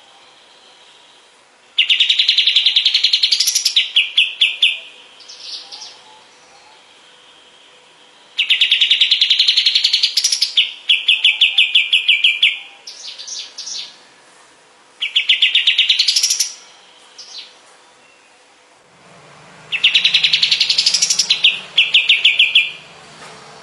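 Kapas tembak songbird singing: four bouts of fast, rapidly repeated trilled notes that climb in pitch, each lasting two to four seconds, with short pauses between them.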